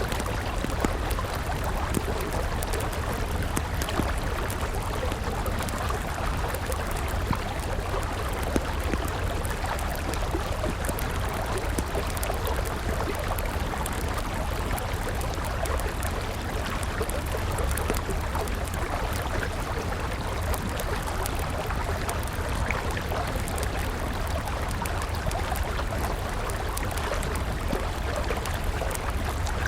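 Steady rushing of a flowing river, with a campfire's wood crackling in small sharp pops throughout.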